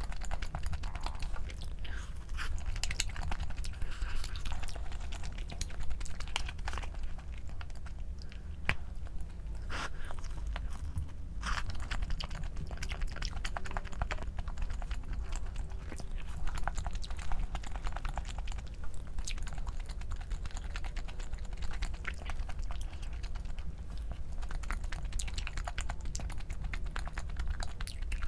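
A person chewing and biting food close to the microphone, with many small irregular crisp clicks and crunches.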